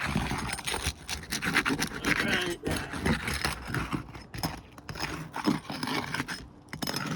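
Flat-bar roof pry tool being worked under asphalt shingles, scraping and crackling as it breaks the tar seal strips that hold them down.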